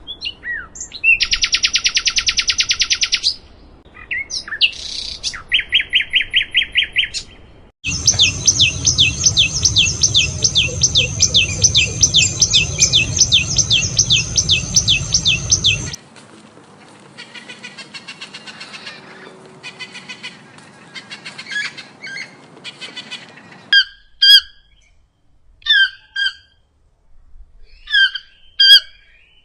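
Bird calls in several separate stretches: fast chirping trills at first, then a long rapid trill in the middle, and short separate calls near the end.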